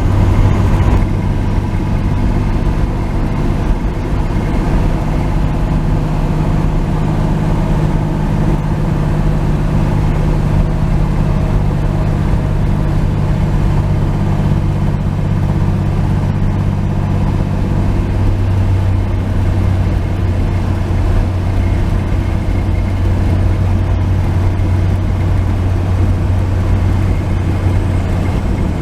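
1949 Chevy 3100 pickup truck's engine running steadily at cruising speed with road noise. A low, even drone holds throughout, and a higher droning tone drops away about two-thirds of the way through.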